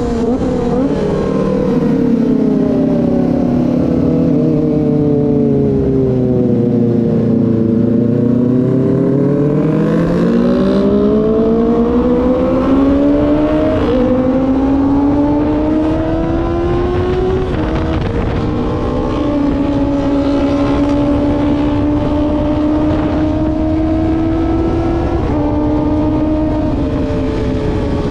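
Kawasaki ZX-25R's 250 cc inline-four engine heard from the bike while riding: the revs fall for about the first seven seconds, then climb again, drop with a gear change about halfway through, and settle into a fairly steady cruise with a couple more small shifts.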